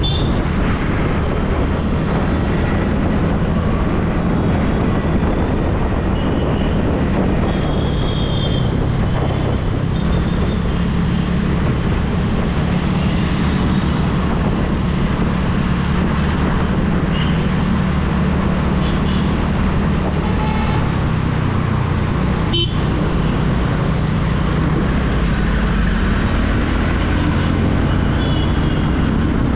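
TVS Ntorq 125 scooter's single-cylinder engine running steadily under way, with road and traffic noise. Other vehicles' horns give a few short toots.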